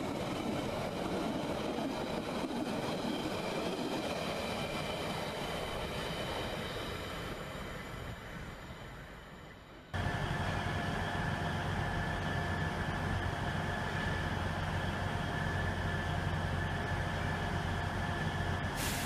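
A Central Line tube train running past close by, its rushing wheel noise fading as it draws away. About ten seconds in, an abrupt change to a steady, even engine drone from a diesel multiple unit standing at a platform, with a brief hiss near the end.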